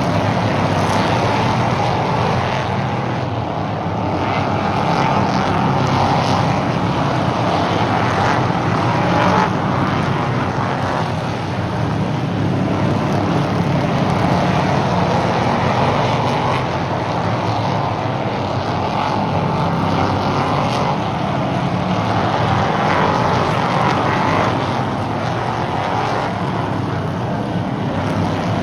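Stock race cars lapping an oval track, their engines running hard in a continuous drone that swells and eases every several seconds as the pack goes by.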